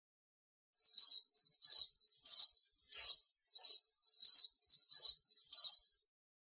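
Bush cricket chirping: a regular series of short, high-pitched chirps, about two or three a second, starting about a second in and stopping shortly before the end.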